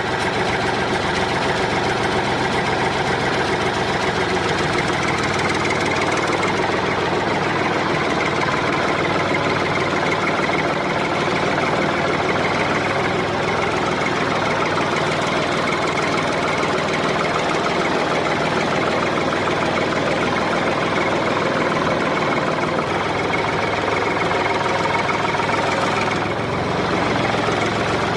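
A motor running steadily: a continuous mechanical whir with a rapid rattle that holds at the same level throughout.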